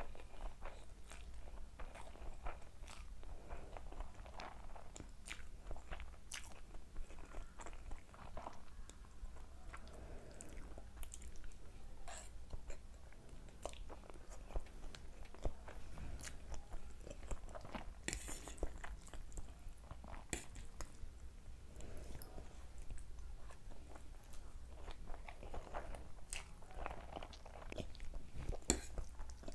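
Close-miked chewing of mouthfuls of Maggi instant noodles, with many irregular short clicks throughout.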